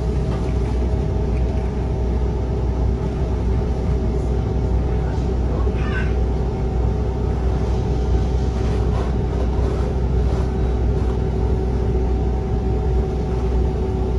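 Steady rumble of a vintage wooden passenger coach rolling along the track behind a steam locomotive, heard from inside the car.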